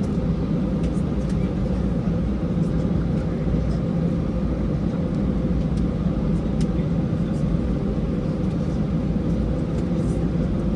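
Steady cabin noise inside an Airbus A320: a constant low rumble of the engines and airflow with a steady hum, no rise or fall, and a few faint ticks.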